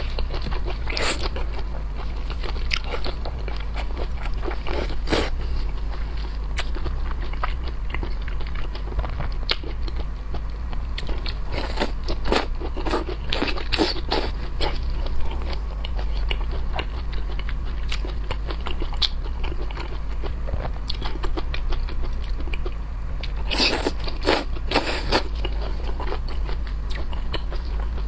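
Close-up biting and chewing of shrimp: irregular crunches and wet crackles of shell and flesh, busiest near the middle and again near the end, over a steady low hum.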